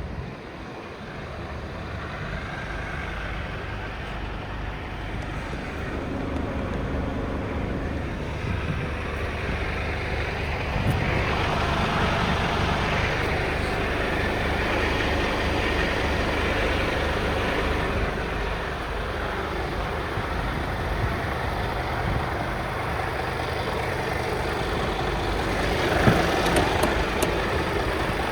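Scania P250 truck's five-cylinder diesel engine running steadily, growing louder about a third of the way in, with a single sharp knock near the end.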